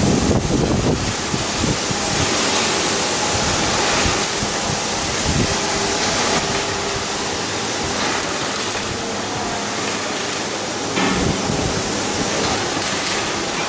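Steady loud rushing hiss with a few faint knocks.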